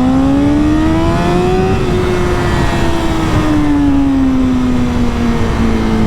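BMW S1000RR inline-four engine revving: its note climbs for about two seconds, holds, then slowly falls as the throttle eases, over steady wind rush.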